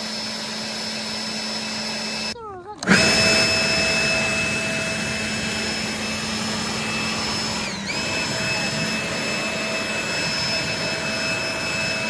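A motor running with a steady whine over a rushing noise; it cuts out for about half a second a little over two seconds in, comes back louder, and dips briefly near eight seconds.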